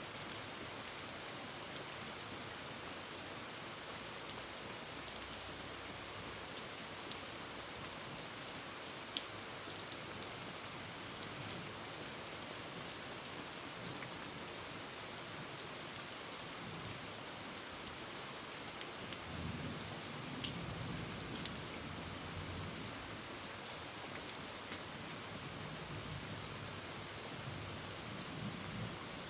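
Heavy rain on a tin roof: a steady hiss with scattered sharp drop hits. A low rumble of thunder swells in about two-thirds of the way through and returns near the end.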